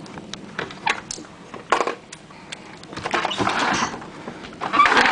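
A window being unlatched and pushed open: a run of sharp clicks and knocks from the latch and frame, then two longer rushes of noise about three and five seconds in.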